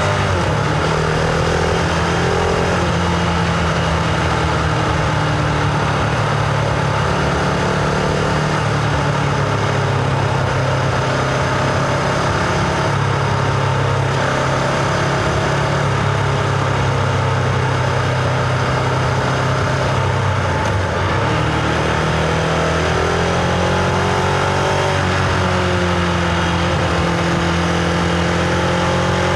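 Husqvarna Vitpilen 701's single-cylinder engine and exhaust under way, heard from on board the motorcycle. It runs at steady revs most of the time, dips briefly about two-thirds of the way through, then the revs rise again, over a constant rush of wind.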